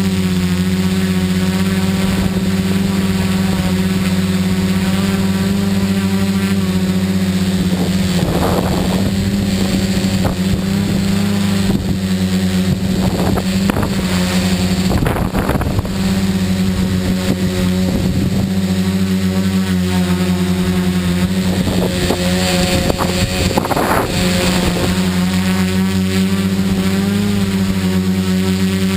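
Tricopter's electric motors and propellers buzzing steadily in flight, holding an even pitch, with a few short rushes of noise over it.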